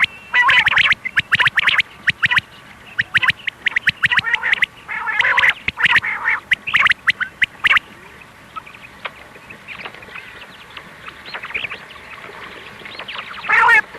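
Female quail calling: quick runs of short, sharp notes in clusters. The calls are dense and loud for the first half, fainter for a few seconds after, then loud again in a burst near the end.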